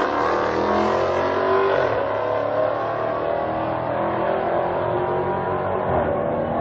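Dodge Charger Hellcat's supercharged V8 at full throttle down a drag strip, its engine note climbing in pitch, dropping at an upshift and climbing again.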